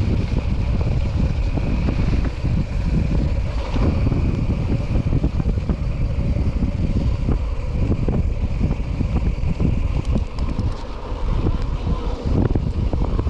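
Wind buffeting the microphone, a loud, gusty low rumble with no voices, while riding a mountain bike.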